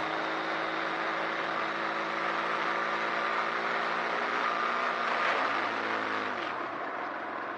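Motorcycle engine running on the move with steady wind and road noise; the engine note falls about six seconds in as it slows.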